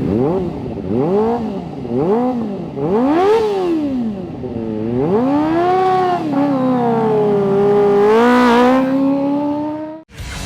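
Kawasaki ZX-25R's 250 cc inline-four revving through an Akrapovic GP titanium exhaust: three quick throttle blips that rise and fall, then a longer rev held high with a further rise near the end. It cuts off abruptly just before the end.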